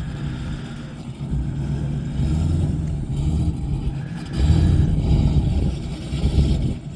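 Car engine running in a low rumble, swelling louder about four and a half seconds in.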